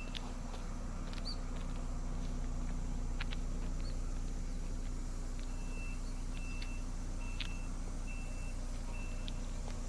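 A vehicle engine running steadily with a low hum. In the second half a reversing alarm beeps in short high tones, about one and a half a second.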